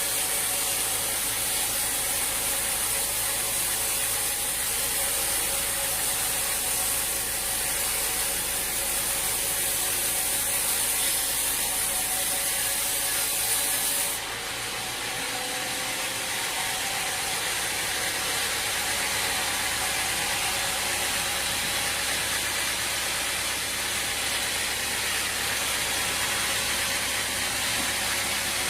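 Sawmill machinery running, a steady mechanical noise that changes abruptly about halfway through, the high hiss dropping away.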